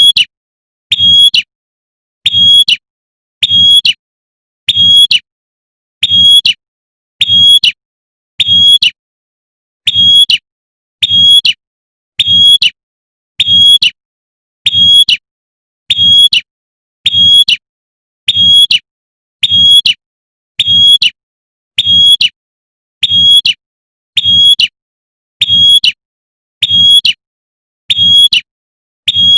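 Female prinia (prenjak) 'tembakan' call, the call a female uses to summon a male: a short, sharp high note repeating evenly about every 1.2 seconds, each with a low thump beneath it.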